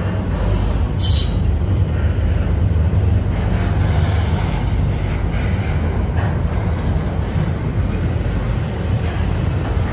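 A train passing close by, a steady heavy rumble of wheels and cars, with a brief high screech of wheel on rail about a second in.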